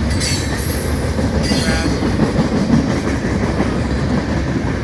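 Freight train cars rolling past close by: a steady rumble of steel wheels on rail, with brief high wheel squeals near the start and again about a second and a half in.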